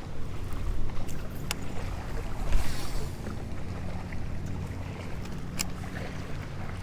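Wind buffeting the microphone and choppy water slapping against a kayak hull, with a low steady hum underneath. A louder wave splash comes about two and a half seconds in, and there are a couple of sharp clicks.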